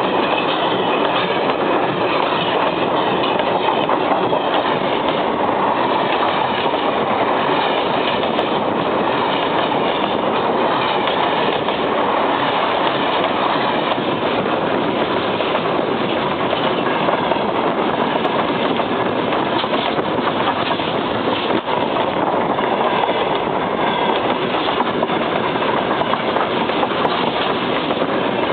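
Freight train's wheels rolling on the rails, heard from right underneath the wagon: a loud, steady rushing din that keeps up without a break.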